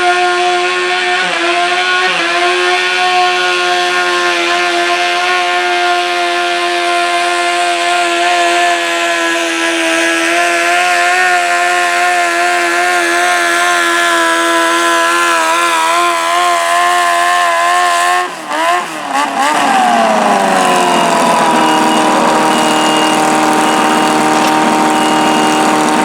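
Modified garden tractor engine held at high, steady revs while pulling a stoneboat. About eighteen seconds in it stutters, then the revs fall and settle at a lower, steady speed.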